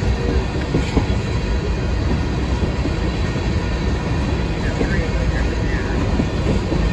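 Freight train's tank cars rolling past close by: a steady, heavy rumble of steel wheels on the rails.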